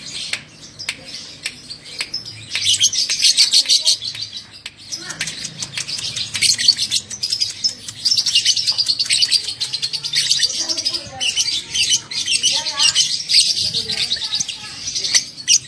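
Lovebird singing its long, rapid chattering trill (the 'ngekek' song), one run near the start and a longer run after a short break.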